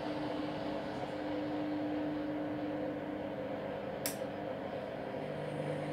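Candy Grand'O Vita washing machine in its pre-wash, the drum motor running with a steady hum as the drum turns to distribute the laundry. A sharp click about four seconds in.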